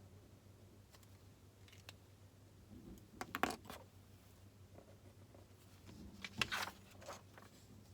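Faint handling noises of a person studying: two short clusters of rustling and clicks, a few seconds apart, over a low steady room hum.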